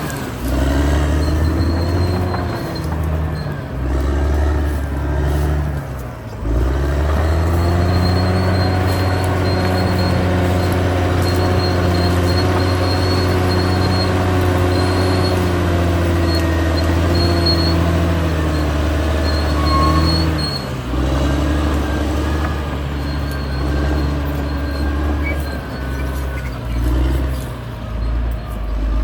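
Caterpillar D6R XL bulldozer's diesel engine working under load, its pitch sagging and recovering about six seconds in and again near twenty seconds as it is throttled and loaded. A thin, high squeal comes and goes over it.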